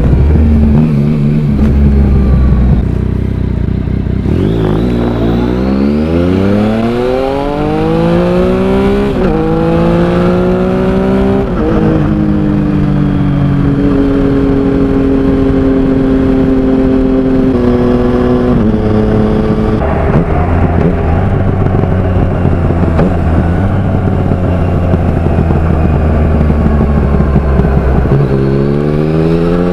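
Yamaha Tracer 900's three-cylinder engine through a Mivv titanium exhaust, accelerating hard and shifting up through the gears, each shift a sudden drop in pitch. It then holds a steady cruising speed with a couple of further gear changes, and revs up again near the end.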